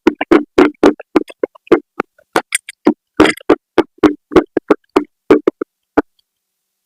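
Crunching of baked clay pot pieces being chewed, close-miked: a run of sharp crunches a few times a second, stopping about six seconds in.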